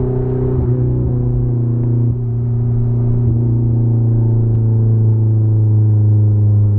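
Honda S2000's four-cylinder engine running loud and steady through an open header with no muffling, its drone holding a nearly constant engine speed with a brief dip about two seconds in.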